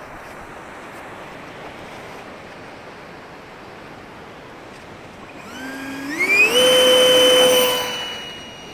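90mm electric ducted fan of a model Hawk jet spooling up: a whine that rises in two steps to a loud, steady high pitch, holds for over a second, then fades near the end. Before it, only wind noise on the microphone.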